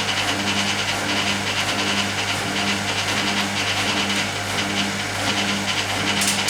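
Hoover Keymatic A3112 washing machine draining, with a steady motor and pump hum and a pulsing swish of water. A short sharp click comes near the end, just before the interim spin.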